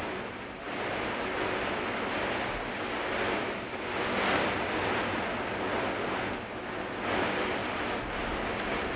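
Typhoon wind gusting, a steady rushing noise that swells and eases every second or two.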